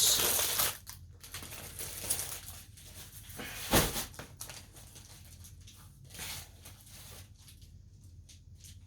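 Plastic parcel packaging being handled, with rustling and crinkling and scattered small clicks. There is a sharp knock just under four seconds in.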